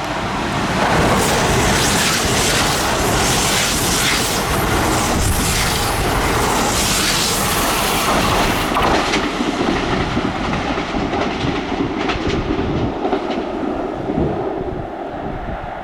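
Kintetsu electric train passing close by, wheels clattering over the rail joints in a quick run of clicks for the first several seconds, then the running noise dies away near the end.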